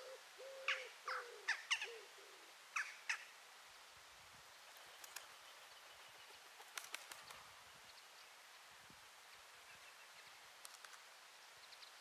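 Birds calling: a low call repeated in short phrases for the first two and a half seconds, with short high chirps over it, then only faint scattered chirps.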